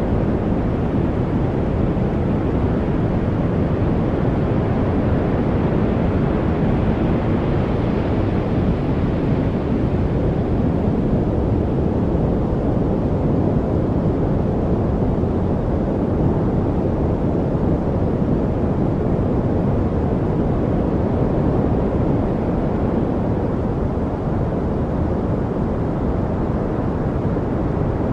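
Steady, deep rushing noise of a white-noise track, even in level with no chirps, drips or other distinct sounds.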